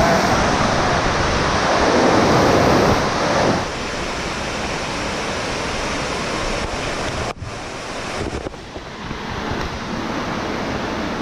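Steady rush of a waterfall close by, a dense even roar of falling water; it drops noticeably in level about three and a half seconds in, with a short dip about halfway through.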